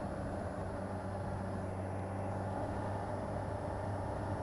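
Motorcycle engine running steadily at an even speed while riding, a constant low drone with no change in pitch, over a haze of riding noise.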